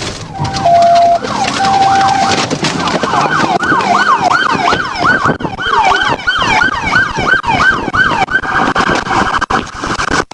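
Police car siren sweeping up and down, speeding up to a rapid yelp of about two sweeps a second. Near the end it changes to a steady buzzing tone.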